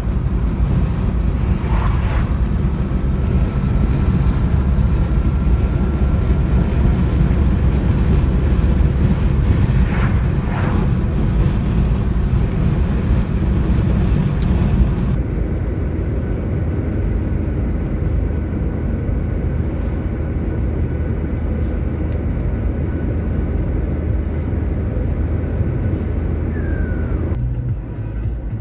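Strong wind buffeting the microphone: a loud, continuous low rumble. The recording changes to another take about halfway through.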